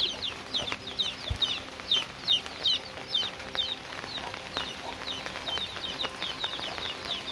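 Birds chirping: quick, high, falling chirps, several a second, with a single low knock about a second in.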